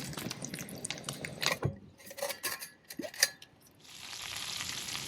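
Butter and lobster tail sizzling in a cast iron pan as a steady hiss. In the middle it drops away and gives way to a few sharp clinks of utensils and dishes.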